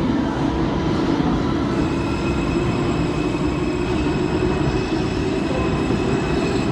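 A train running on rails: a steady, loud rumble of wheels and cars, with a thin, steady high tone joining in about two seconds in.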